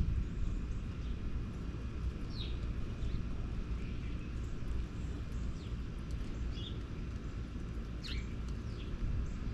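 Small birds giving short, scattered chirps, about six in all, over a steady low background rumble.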